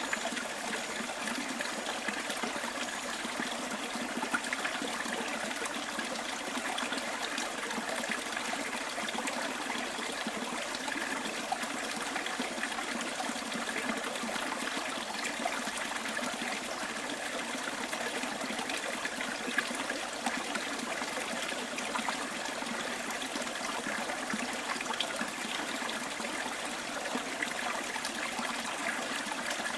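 Bush stream trickling steadily, with a few brief louder splashes.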